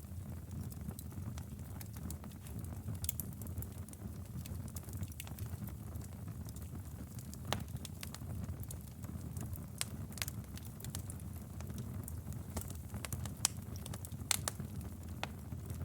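Wood fire burning in a fireplace: a steady low rumble from the flames with irregular sharp crackles and pops, one louder snap near the end.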